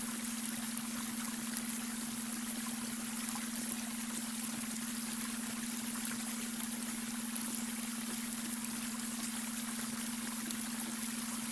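Babbling brook: steady rushing, trickling water with a constant low tone underneath, the added beta-wave brainwave tone.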